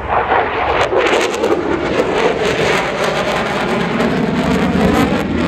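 Aircraft flying past at an airshow: a loud, rushing engine noise whose pitch sweeps downward as it passes.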